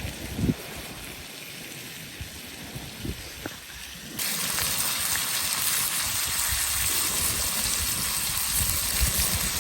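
Steak sizzling in a hot pan over a campfire: a strong, even frying hiss that starts suddenly about four seconds in, after a quieter stretch with low rumbles.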